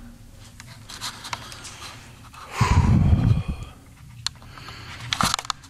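A heavy breath out close to the microphone, lasting under a second about two and a half seconds in, with a few soft clicks of the camera being handled.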